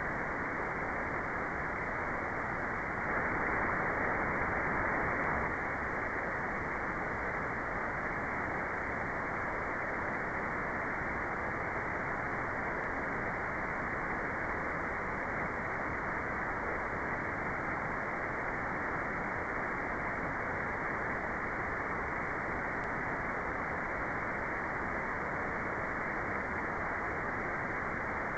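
Steady white noise for meditation: an even, unchanging hiss with the treble cut away, so it sounds somewhat muffled. It gets slightly louder for a couple of seconds a few seconds in.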